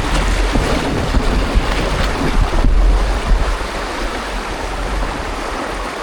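Creek water rushing and splashing around a kayak in a shallow stretch, with wind buffeting the microphone.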